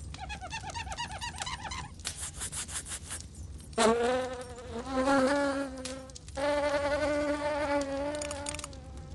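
Stylised cartoon fly sounds: quick twittering chirps for the first two seconds, then a patch of crackly rustling. About four seconds in, a buzzing drone sets in, wavers slightly in pitch, breaks off briefly, and stops near the end.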